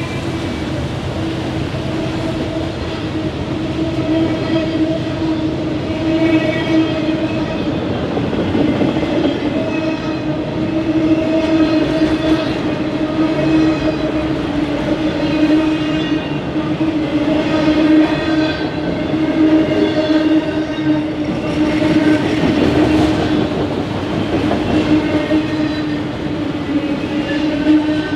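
A train rolling past at close range, with a steady droning tone under the noise of the cars going by.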